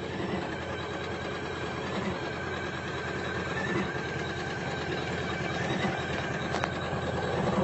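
Computerized embroidery machine stitching steadily, a rapid, even run of needle strokes, with one small click near the end.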